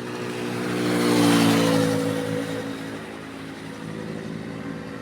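A motor vehicle passes by on the road. Its engine and tyre noise grow louder to a peak about a second and a half in, then fade away, with the engine note dropping slightly as it goes past.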